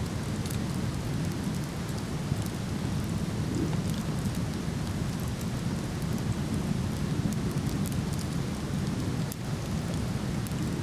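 Steady, deep rush of a waterfall, with the light crackles and pops of a wood fire burning in a fire pit scattered over it.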